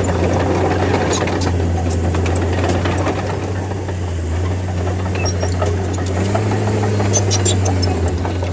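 Bulldozer's diesel engine running steadily, with scattered sharp clicks and clanks over it. The engine note rises slightly about six seconds in.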